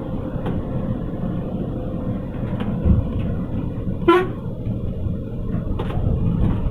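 Scania multi-axle coach running with a steady low engine rumble, and a short horn toot about four seconds in.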